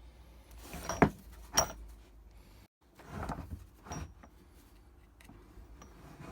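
Two sharp knocks about half a second apart, then a short scraping rustle and a lighter knock: hard objects being handled and set down on a workbench.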